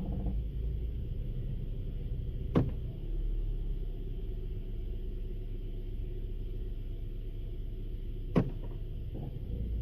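2016 Honda Civic at a standstill with a low grinding, gargling rumble that appears only when the transmission is in Drive. Two sharp clicks come about two and a half seconds in and again near the end, and the low rumble grows heavier after the first.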